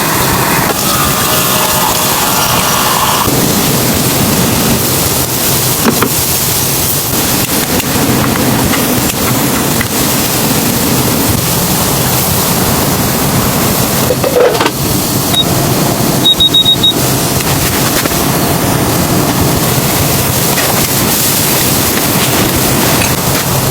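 Strong blizzard wind blowing hard and steadily, with a few short knocks a little past the middle.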